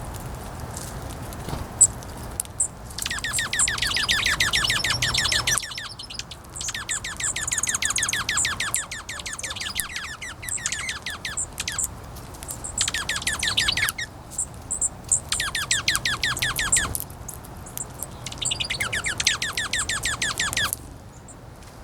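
A songbird singing a rapid trill of fast repeated notes, in bouts of about two to three seconds, six times over. Wind rumbles steadily on the microphone underneath.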